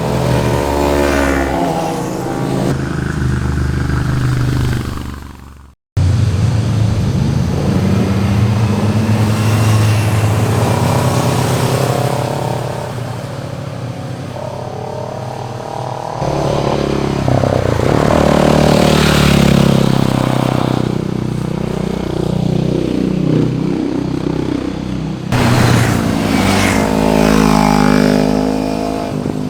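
Sport motorcycles riding past one after another, engines revving up and down through the gears with rising and falling pitch as each goes by. The sound cuts out briefly about six seconds in.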